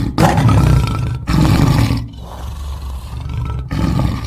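Lion roaring: two loud, heavy roars in the first two seconds, then quieter grunting roars.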